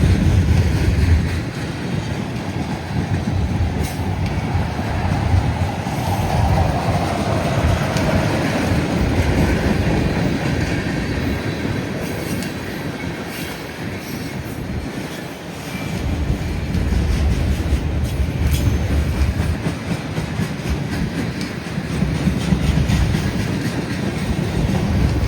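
Freight cars of a long train rolling past, steel wheels clicking over rail joints, with a faint squeal that falls in pitch a few seconds in. Wind buffets the microphone.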